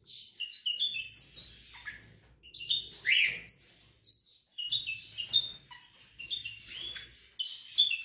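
Small cage birds chirping: many short, high chirps in quick runs, with brief pauses about two and about four seconds in.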